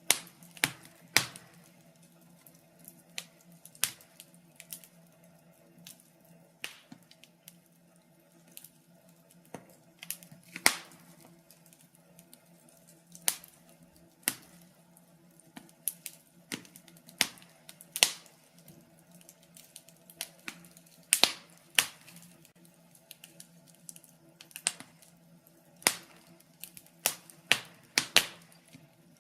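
Wood fire of burning logs in a fireplace crackling, with sharp irregular pops and snaps at uneven intervals. A faint steady low hum sits underneath.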